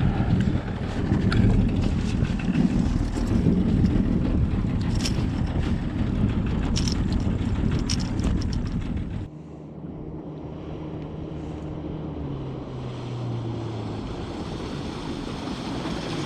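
Motorboat under way, with wind buffeting the microphone and occasional knocks. About nine seconds in, the sound drops suddenly to a quieter, steady engine hum, which then settles a little lower in pitch.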